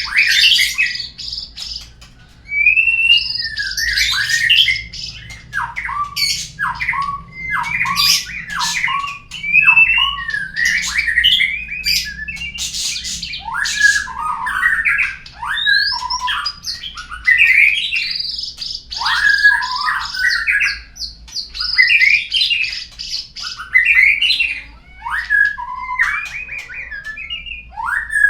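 Murai batu (white-rumped shama) song: a continuous run of varied whistles, sliding notes and harsh chatters, used as a lure track to prompt caged birds to sing.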